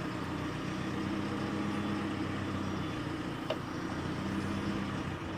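Telehandler engine running steadily while lifting a heavy load, with one short sharp click about three and a half seconds in.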